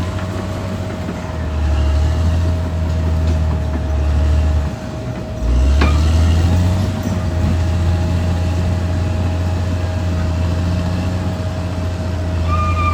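Caterpillar D6R XL bulldozer's diesel engine running under load with a steady whine over it; the engine eases off briefly about five seconds in, then pulls back up. A sharp click just after it picks up again.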